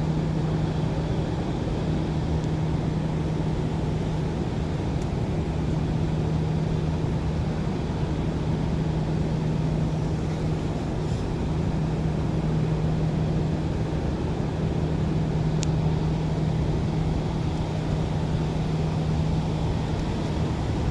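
Steady road and engine noise inside a moving car, with a constant low hum.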